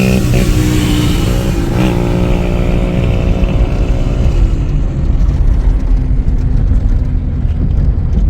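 Car engine and road noise, heard from a moving car: a steady engine drone over low rumble. The drone eases off about four seconds in, leaving the rumble.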